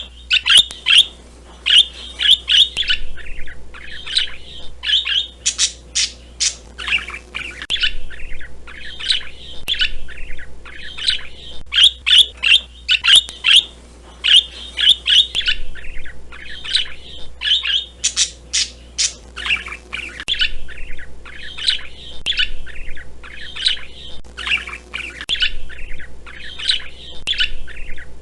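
Parrot squawking and chirping: quick runs of short, high calls with brief pauses between them.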